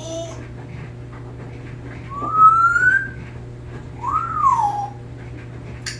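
African grey parrot whistling two clear notes: a rising whistle about two seconds in, then one that rises and falls about a second later.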